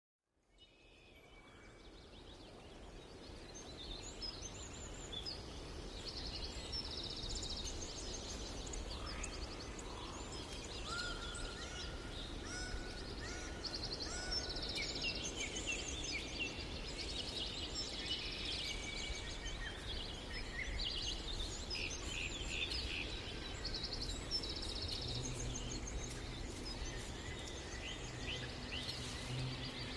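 Several birds singing and calling at once, with rapid trills, chirps and short whistles overlapping, over a steady low background rumble. The sound fades in over the first few seconds.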